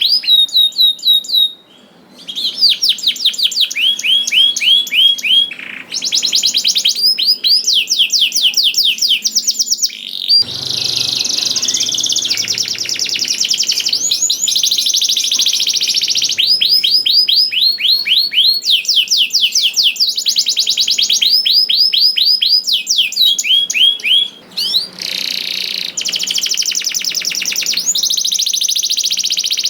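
Domestic canary singing continuously in long rolling trills, each phrase a fast run of about ten repeated high sweeping notes a second, changing from phrase to phrase, with brief pauses about two seconds in and near the end.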